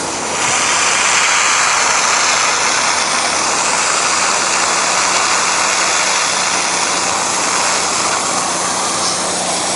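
Gas pressure washer running with the low-pressure black tip, spraying water onto a painted wood deck: a steady, loud spray hiss over the hum of the engine, starting to build about half a second in.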